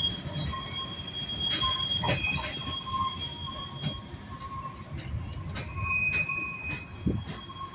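Freight cars of a Union Pacific work train rolling past: a steady high wheel squeal with a second, lower squealing tone, irregular sharp clanks from the wheels on the rails, and a low rumble underneath.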